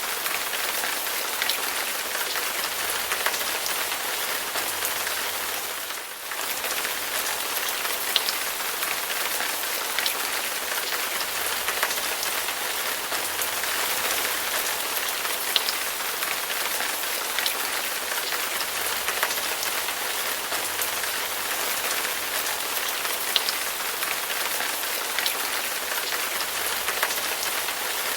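Heavy rain falling steadily, a dense hiss with scattered sharp drop impacts; it briefly dips about six seconds in.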